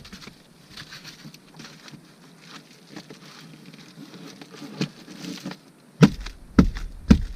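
Faint rustling and small clicks of gear being handled inside a car. Then, near the end, several sharp knocks and thumps.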